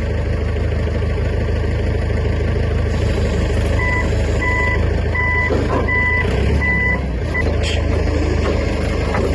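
A vehicle's engine running steadily, with a reversing alarm beeping six times midway through.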